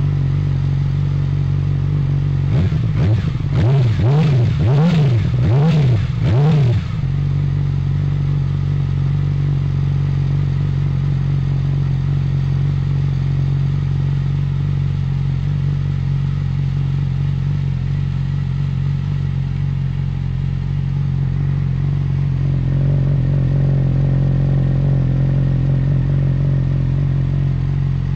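Yamaha YZF-R6's inline-four engine idling steadily through its exhaust, with a quick series of about five throttle blips, each rising and falling in pitch, a few seconds in, before it settles back to idle.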